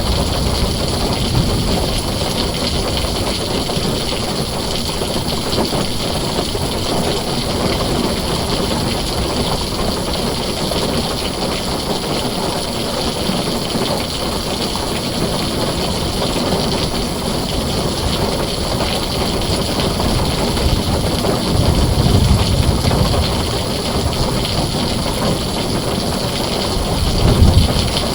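Heavy rain pouring steadily on a tin roof, with low thunder rumbles swelling about two-thirds of the way through and again near the end.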